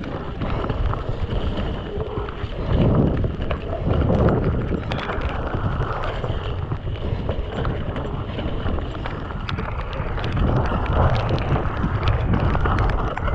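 Wind buffeting the microphone as a mountain bike is ridden fast over wet, rough ground, with tyres rolling through mud and frequent small knocks and rattles from the bike.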